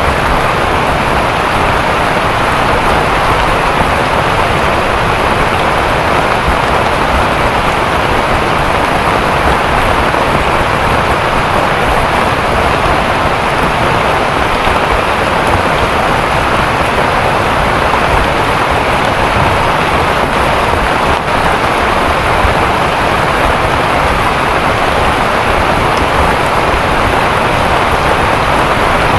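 Heavy rain falling steadily in a forest, a loud even downpour that doesn't let up.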